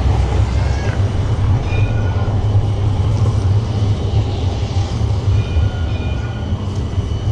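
Steady low rumble of a large vehicle passing close by, with a few short, faint high squeals above it.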